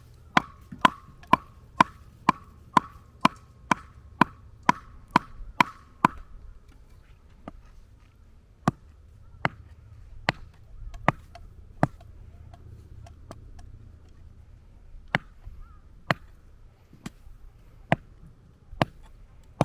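Firewood being split by batoning: a blade driven into the wood by repeated sharp strikes, about two a second for the first six seconds with a short ring after each, then slower, irregular strikes.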